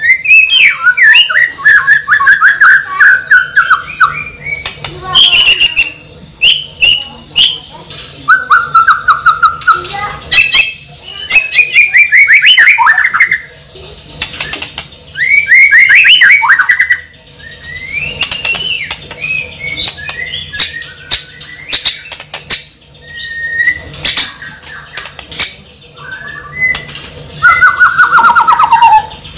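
A bird giving loud, repeated calls, each one to two seconds long and rapidly pulsing, with many sharp clicks between them.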